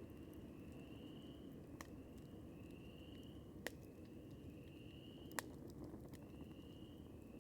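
Wood campfire crackling quietly, with a low steady hiss and three sharp pops among smaller ticks. Behind it, a faint high-pitched call about a second long repeats roughly once a second.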